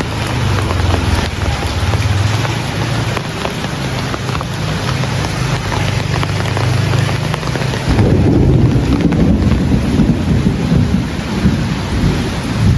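Steady heavy rain with a low rumble beneath it. About eight seconds in, a louder rumble of thunder sets in and keeps rolling.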